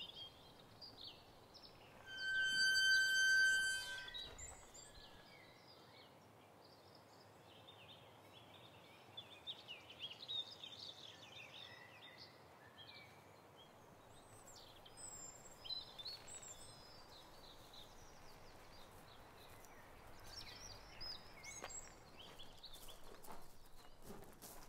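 Birds chirping over faint outdoor ambience. About two seconds in, a loud, steady high-pitched tone lasts about two seconds.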